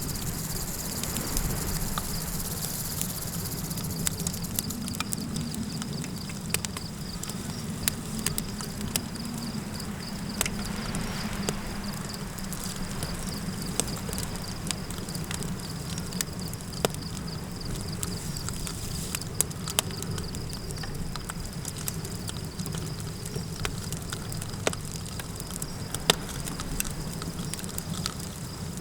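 Campfire crackling with scattered sharp pops, over a low steady rumble of wind and a continuous high, pulsing chirr of crickets.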